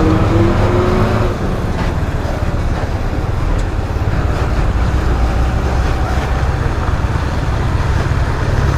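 Yamaha R15 V3's single-cylinder engine pulling away, its pitch rising over the first second or so. After that it runs steadily under dense wind and road noise.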